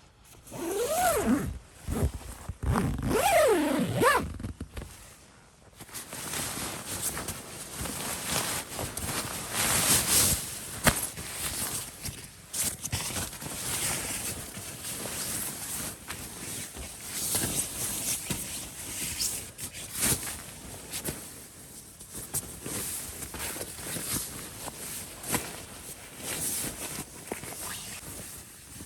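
A zipper pulled twice in quick strokes in the first few seconds, each pull sweeping up and down in pitch, followed by a steady hiss with scattered clicks.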